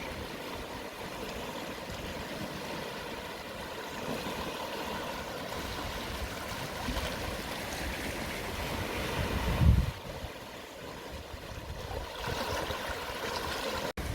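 Gentle sea waves washing over a shallow shore at low tide, a steady hiss of surf. A low rumble of wind on the microphone swells about nine seconds in, and the sound cuts out for a moment near the end.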